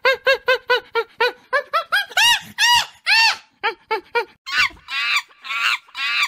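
A rapid series of pitched animal calls, each rising and falling, about four a second, turning louder and higher about two seconds in and harsher and rasping near the end.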